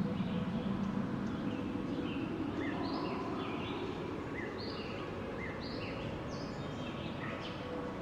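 Steady wind rushing, with a small bird chirping repeatedly: short high notes about once or twice a second.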